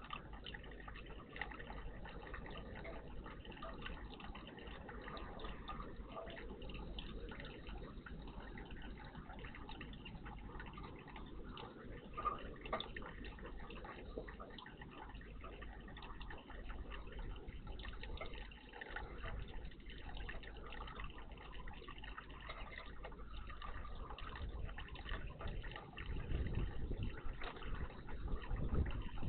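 Water dripping and trickling in a garden bird bath, a steady watery patter with small splashes throughout. A louder low rumble comes in for the last few seconds.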